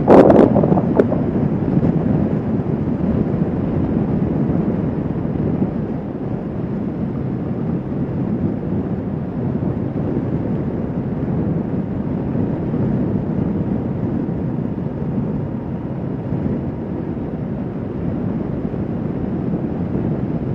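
Wind rushing steadily over the microphone while riding a motorcycle at road speed, with a short loud knock on the microphone at the start.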